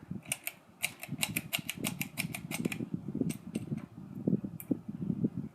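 Victorian Industries SMC Laguna KB-36 ceiling fan running on high, with a rapid, irregular run of sharp clicks and ticks from the fixture.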